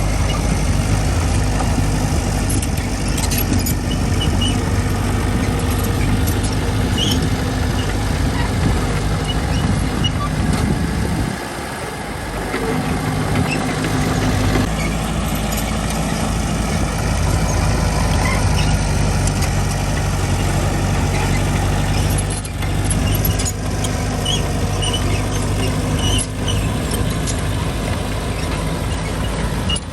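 Diesel engine of heavy earthmoving machinery running steadily, its note dropping briefly about twelve seconds in before picking up again, with scattered small clanks over it.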